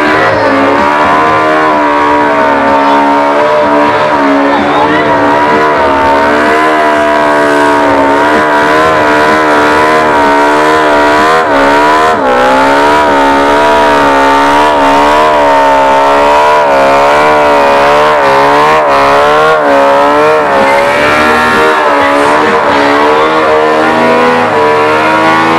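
Car engine held at high revs during a burnout, its pitch wavering up and down as the throttle is worked, with a sharp dip and recovery about twelve seconds in; the rear tyres spin on the tarmac.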